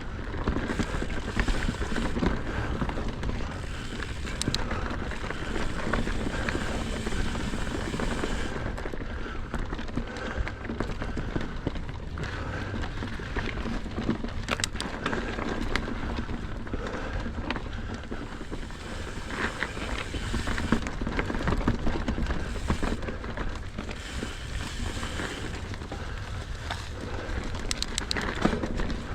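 Mountain bike riding over a frozen dirt trail: a steady rumble of tyres and wind on the microphone, with frequent clicks and rattles from the bike over bumps.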